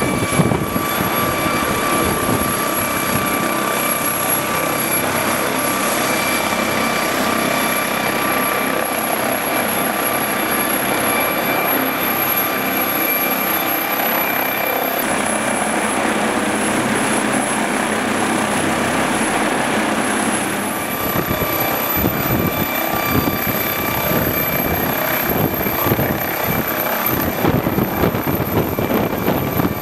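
Helicopter running steadily: a noisy rotor rumble under a high whine. The whine steps in pitch about halfway through and climbs in the last third, while the rumble grows heavier.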